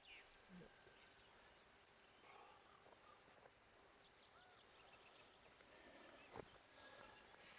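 Near silence: quiet outdoor ambience with faint bird calls, including a short rapid high trill about three seconds in, and a single faint tap about six seconds in.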